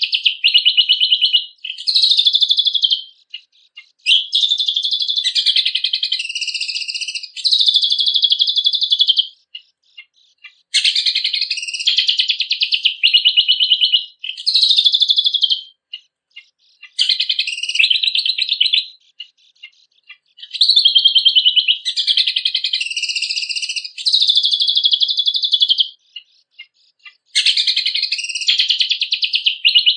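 Cucak kombok (kecial kombok) songbird singing: high, rapid chattering phrases a second or two long, one after another with brief pauses between them.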